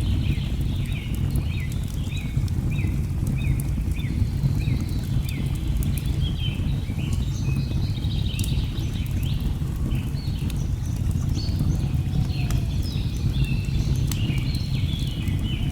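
Layered rainforest ambience: the steady low rush of a waterfall under repeated short falling chirps of jungle birds, about two a second at first, with scattered pops of a crackling log fire.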